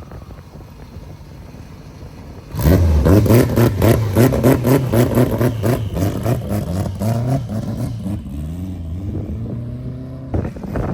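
A performance car's engine starts revving hard about two and a half seconds in, loud with a rapid pulsing. Its pitch then climbs as the sound eases off, as if the car is accelerating away.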